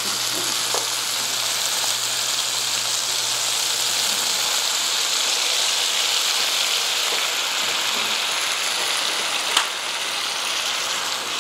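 Chicken and artichoke hearts sizzling steadily in a hot sauté pan while red wine goes in to deglaze it. A single sharp click sounds near the end.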